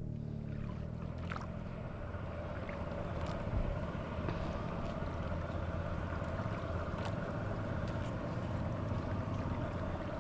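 Small boat's engine running steadily under way, a continuous drone, with a single brief knock a few seconds in.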